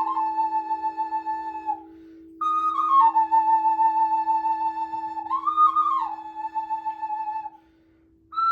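Flute playing slow, long held notes over a steady low drone. One note is held until about two seconds in, then after a short pause a second phrase steps down, rises and falls again in pitch, and ends about a second before the close. The drone carries on through the pauses.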